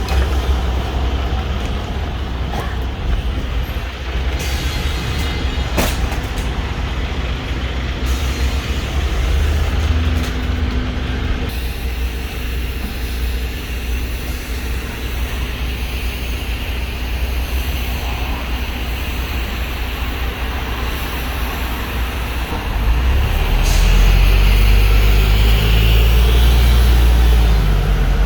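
Edison Motors Smart 110G CNG city bus, GX12P engine, running steadily at a stop with a sharp knock about six seconds in. About 23 seconds in the engine grows louder and deeper as the bus pulls away.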